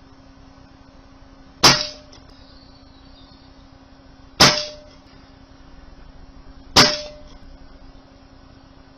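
Brocock Concept PCP air rifle firing three shots about two and a half seconds apart. Each shot is a sharp crack with a brief metallic ring, under a faint steady hum.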